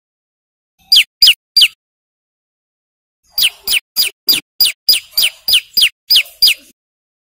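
Prenjak lumut singing its sharp, loud call: three quick notes, a short pause, then a rapid run of about eleven notes, each a fast downward-sweeping chirp, at roughly three a second.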